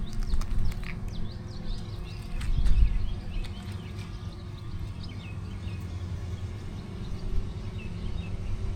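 Honeybees buzzing around an open hive, a steady low hum. A louder low rumble on the microphone comes about three seconds in, and there are a few light clicks from frames being handled.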